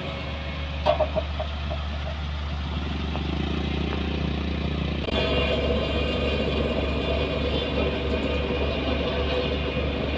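Engine of road-construction machinery running steadily with a low hum, with a few short clicks about a second in and a change in the engine note about five seconds in.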